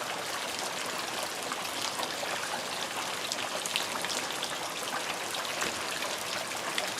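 Steady heavy rain falling, a constant hiss dotted with many small drop impacts.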